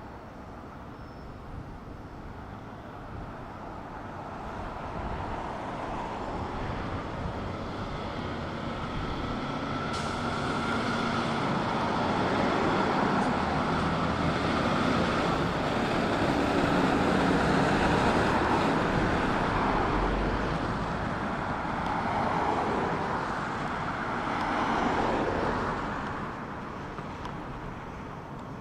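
Fire department ladder truck driving past: engine and tyre noise builds to a peak about halfway through, then fades away.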